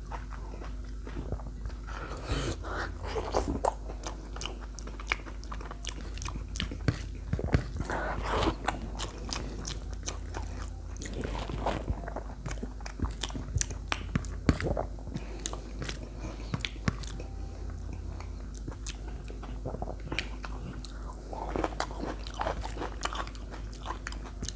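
Close-miked eating: a person biting and chewing spicy chicken with wet, crunchy, irregular clicks and smacks throughout.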